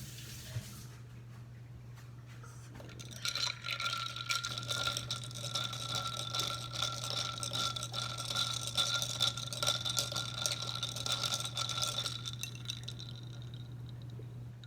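Espresso machine steam wand hissing for about nine seconds with a steady whistle and crackle, then cut off. Water runs from the tap for the first second.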